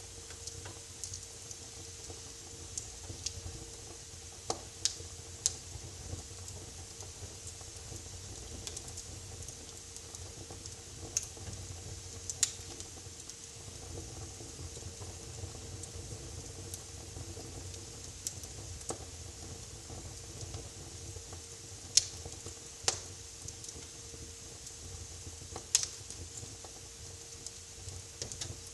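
Wood fire crackling: irregular sharp pops and snaps over a steady low hiss, with a couple of louder pops about three-quarters of the way through.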